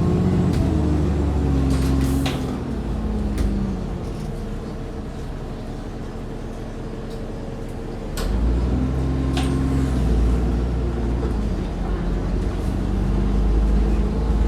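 Alexander Dennis Enviro400 double-decker bus engine from inside the bus: revs falling as it slows, running quieter for several seconds, then revving up again about eight seconds in as it pulls away. A steady whine runs underneath, with a few sharp clicks and rattles.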